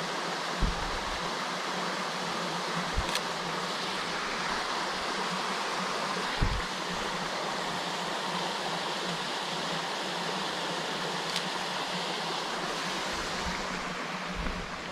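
Steady rushing of a waterfall, with a few brief low thumps about a second, three seconds and six seconds in.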